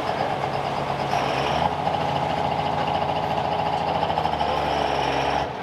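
Turbocharged diesel engine of a pro stock pulling truck running loud and steady, with a shift in tone about one and a half seconds in and an abrupt break near the end.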